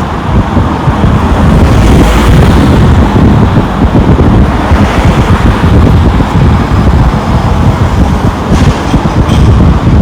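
Wind buffeting the microphone in a loud, uneven low rumble, over the rushing hiss of road traffic that swells about two seconds in and again near the end.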